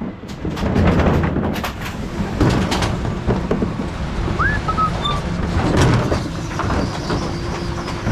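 Mercedes Econic refuse truck's rear bin lift tipping wheelie bins of paper and metal recycling, with repeated clattering knocks and rattles over the engine running. A short rising squeak comes about halfway through.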